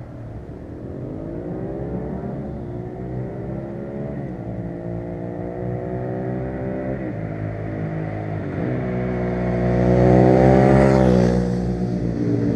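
Suzuki SV650S 90-degree V-twin with a Delkevic 350 mm stainless steel exhaust, accelerating through the gears: the engine note rises, breaks at each of four shifts, and climbs again. It comes loudest as the bike passes about ten seconds in, then the pitch drops as it moves away.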